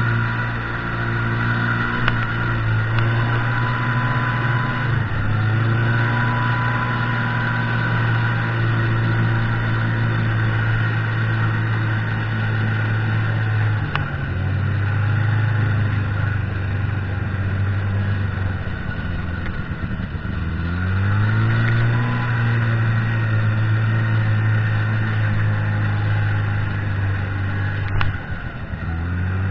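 Buran snowmobile engine running under way, revving up and easing off several times, with brief drops in throttle about halfway through and near the end.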